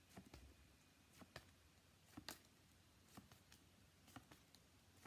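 Near silence with faint, scattered clicks and taps, often in pairs, about every second.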